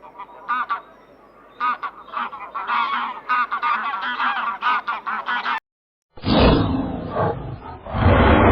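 A flock of birds giving a rapid series of short, high calls for about five seconds. After a brief pause, a louder, rougher animal call starts near the end.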